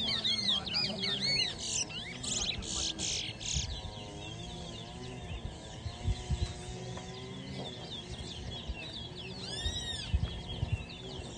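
Caged towa-towa finch singing: a fast run of looping, chirping notes over the first few seconds, then a short phrase of arched whistled notes near the end. These are songs that the judge tallies one by one in the song race.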